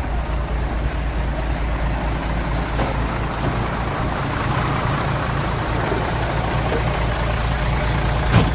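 Truck engine idling with a steady low rumble, and a single sharp knock near the end.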